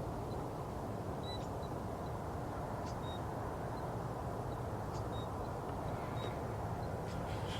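Steady low outdoor background rumble, with a few faint, very short high peeps of distant birds scattered through it.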